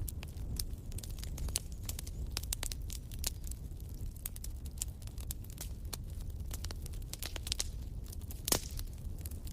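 Fire crackling in a fireplace: dense, irregular snaps and pops over a low steady rumble, with one louder pop about eight and a half seconds in.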